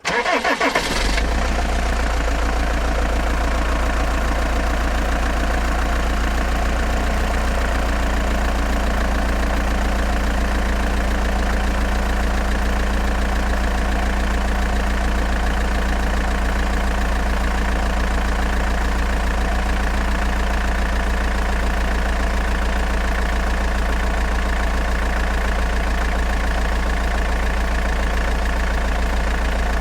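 Heavy diesel engine of a utility vehicle idling steadily with a fast, even low clatter. It is louder and harsher for about the first second, then settles.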